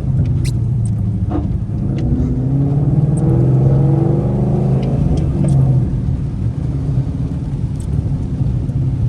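Modified 2012 Ford Mustang GT's 5.0 V8 engine running under steady cruise with a low rumble, its pitch rising a little a couple of seconds in and easing back down past the middle.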